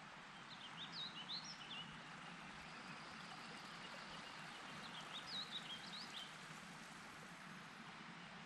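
A small songbird sings two short phrases of quick up-and-down chirps, one about a second in and one about five seconds in, over a steady faint hiss of outdoor background noise.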